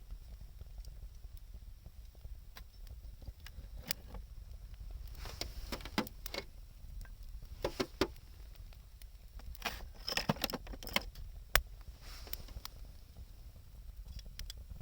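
Wood fire crackling and popping in irregular sharp snaps, thickest in a few clusters and sharpest a little past the middle, over a steady low rumble.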